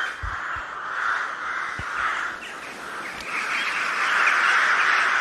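Crows cawing, with a steady hiss underneath that grows louder about three seconds in.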